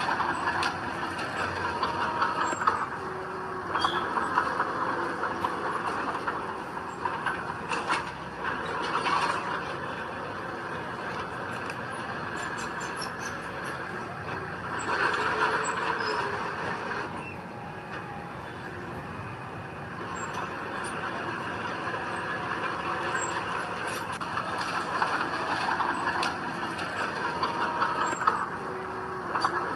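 Diesel earthmoving machinery running steadily, with scattered sharp metal clanks and short high squeals. It swells louder for a couple of seconds about halfway through.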